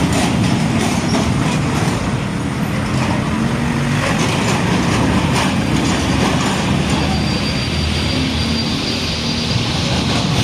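A heavy vehicle rumbling past close by, with rattling clicks through the first half and a thin high whine from about seven seconds in.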